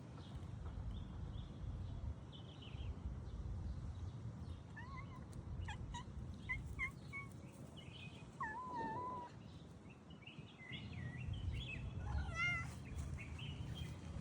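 A cat making a string of short chirps, then a longer meow that dips in pitch, and a wavering trill near the end, over a low rumble.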